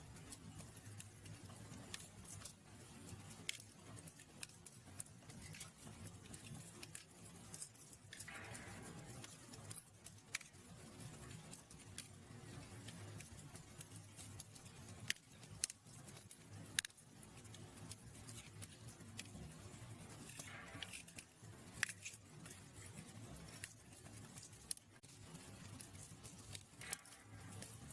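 Wood fire crackling in a fireplace: irregular sharp pops and snaps over a low steady background, with a brief hiss twice, about eight and twenty seconds in.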